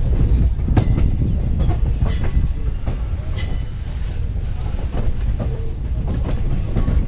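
Indian Railways passenger coach running along the track, heard from its open doorway: a steady low rumble of the wheels on the rails, broken by irregular sharp clacks as the wheels pass over rail joints.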